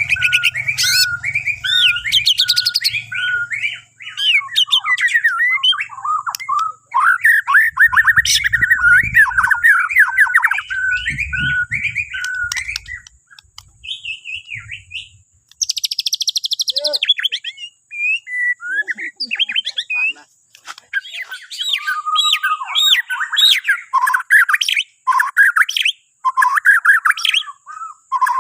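Bornean white-rumped shama (murai batu) singing a long, varied song of clear whistles and fast chattering runs, broken by short pauses. About sixteen seconds in there is one harsh, buzzy note.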